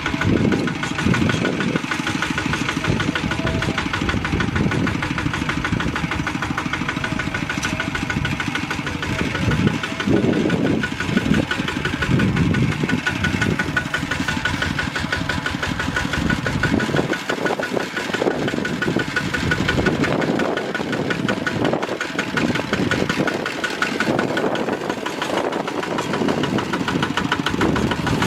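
Bulldozer's diesel engine running steadily with a fast, even clatter. Its low end swells and fades as the machine works.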